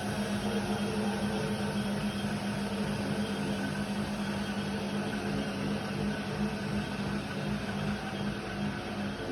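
Indesit WIDL 106 washer-dryer running, a steady motor hum with an even whirring noise that holds at a constant level.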